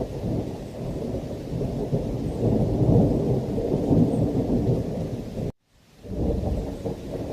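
Thunderstorm: low, rolling thunder over heavy rain, swelling about three to four seconds in. The sound cuts out abruptly for about half a second at about five and a half seconds in, then comes back.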